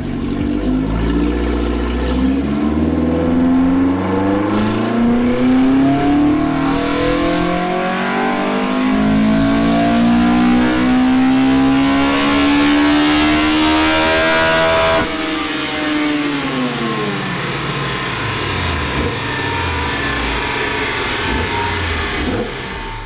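Toyota 4A-GE four-cylinder on individual throttle bodies making a full-throttle chassis-dyno pull. The revs climb steadily for about fifteen seconds toward 10,000 rpm, then the throttle shuts suddenly and the engine note falls away as the rollers slow down.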